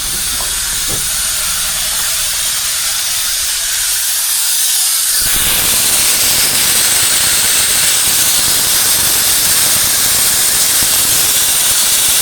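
Compressed air hissing steadily from a Scania truck's lift-axle air system after the axle button is pushed, a leak the owner puts down to a faulty relief valve. The hiss is loud and thin at first, then about five seconds in it turns fuller and deeper.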